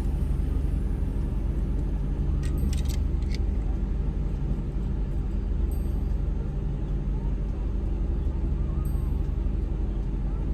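Car engine idling, a steady low hum heard from inside the cabin, with a few light clicks about two to three seconds in.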